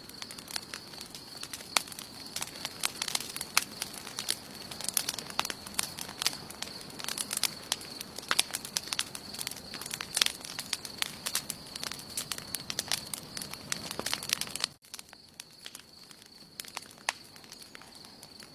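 Wood campfire crackling, with frequent sharp pops and snaps over a steady high-pitched tone. About 15 seconds in there is an abrupt dip, and after it the crackling is sparser and quieter.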